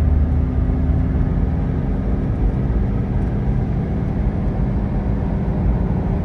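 GAZelle Next van driving along at steady speed: a continuous low engine and road rumble with a faint steady whine.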